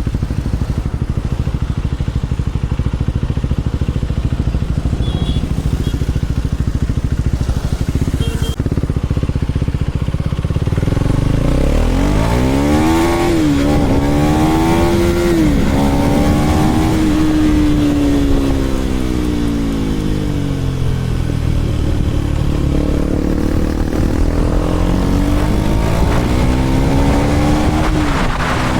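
KTM Duke 390 Gen 3 single-cylinder engine through an Arrow aftermarket exhaust, running at low revs for about the first ten seconds. It then accelerates hard through several upshifts, the pitch climbing and dropping at each change. It holds a steady cruise, eases off, and pulls up through the revs again near the end.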